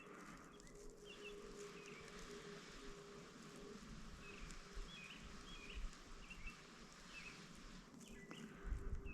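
Quiet outdoor ambience with a small bird giving a series of short, faint chirps, about two a second through the middle, over a faint steady hum.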